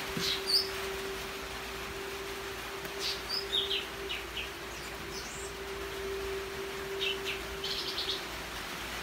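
Small birds chirping: scattered short, high calls every second or two over a steady hum.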